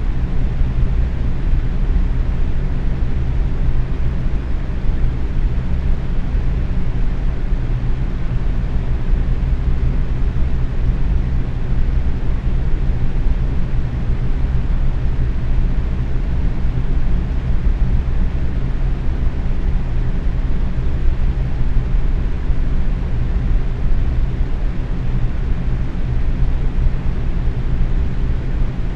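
Box fan running steadily at medium speed: an even whoosh of moving air over a low motor and blade hum that never changes.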